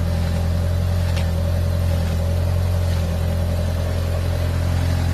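Audi S3 8L's 1.8-litre turbocharged four-cylinder (BAM) engine idling steadily through an aftermarket Milltek sports exhaust, with a low, even exhaust note.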